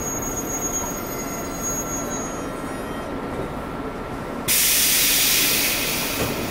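JR East 115 series electric train standing at a platform with a steady rumble and faint whine. About four and a half seconds in, a sudden loud hiss of compressed air from the train's pneumatic system starts, then fades out after about a second and a half.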